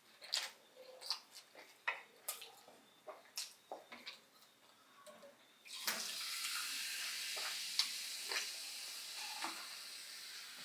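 Close-up eating sounds: short wet clicks and crackles of chewing a sandwich. About six seconds in, a steady watery hiss starts suddenly and slowly fades, the sound of a drink being poured.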